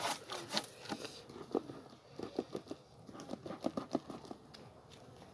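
Light, irregular taps, knocks and rustling from hands working a beehive during an inspection.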